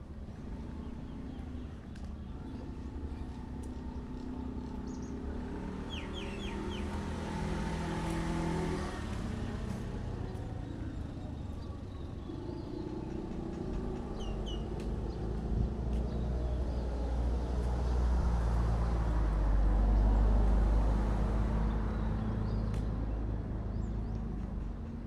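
A vehicle's engine rumbling, its low sound building to the loudest point about twenty seconds in and then easing off. Short high bird chirps come around six seconds in and again around fifteen seconds in.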